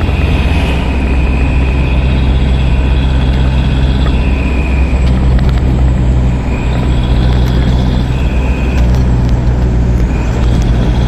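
Truck engine idling, a steady low hum that holds throughout.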